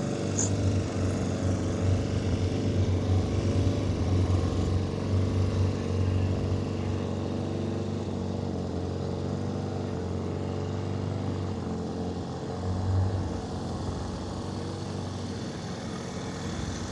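A motor vehicle's engine running steadily: a low droning hum that swells for the first several seconds and again briefly about thirteen seconds in.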